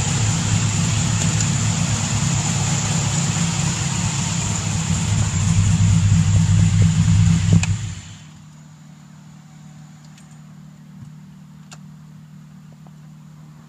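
A Fox-body Mustang's ProCharger-supercharged 363 cubic-inch V8 running with a rough, pulsing low note. About eight seconds in there is a click and the engine cuts off, leaving only a faint steady hum.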